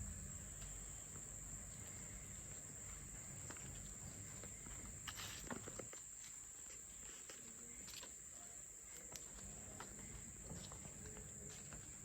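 Steady high-pitched drone of rainforest insects, with scattered light knocks, a cluster of them about five seconds in.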